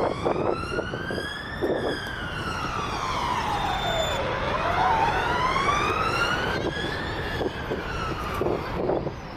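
Emergency vehicle siren wailing, its pitch sliding slowly up and down: it rises, falls to a low point about four seconds in, then rises again.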